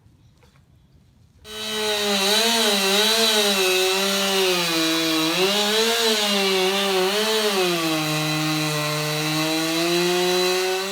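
Gas chainsaw running hard in a cut, starting about a second and a half in. Its pitch wavers up and down and sags lower toward the end as the wood loads the engine, then it cuts off near the end.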